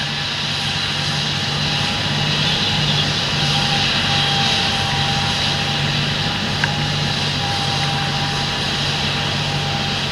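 Large John Deere tractor's diesel engine running steadily in the field, a constant drone with a low hum and hiss, and one small tick a little past halfway.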